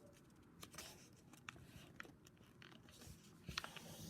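Faint rustling and crinkling of a sheet of A4 paper being folded by hand, a flap pressed toward the centre crease, with a louder crackle of paper a little after three seconds.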